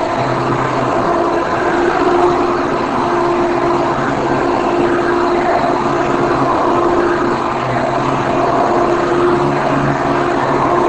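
1990 Hoover Elite upright vacuum cleaner running steadily: a constant motor drone and rush of air.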